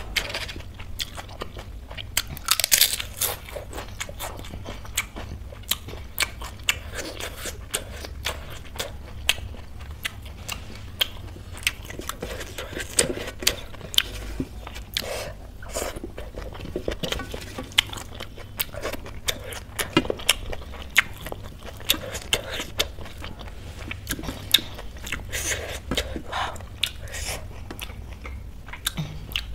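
A person eating by hand, chewing food with many sharp crunches and mouth clicks coming in quick succession.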